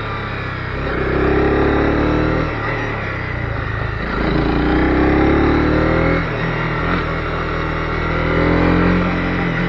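Honda CB250R single-cylinder engine revving up and easing off again and again, in rises roughly every two to three seconds, as the bike is ridden along a forest road.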